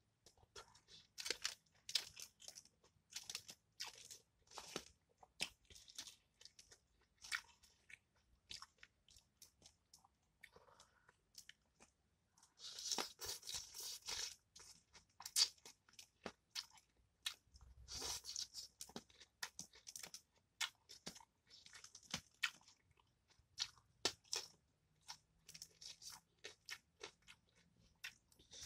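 Close-miked chewing and crunching of bone-in fried fish, in irregular bites, with a louder spell of crunching about halfway through.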